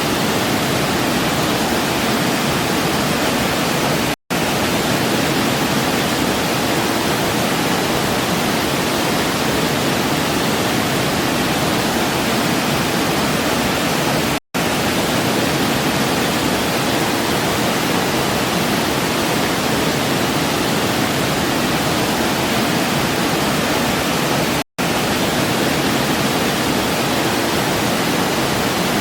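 Waterfall: a steady rush of falling water, broken by three split-second silent gaps about ten seconds apart.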